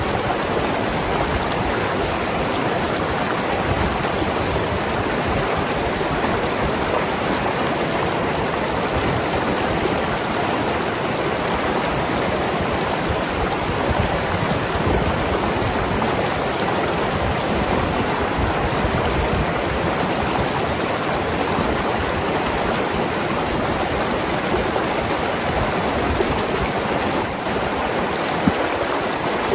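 Mountain river rushing and gurgling over rocks, a steady, unbroken sound of running water.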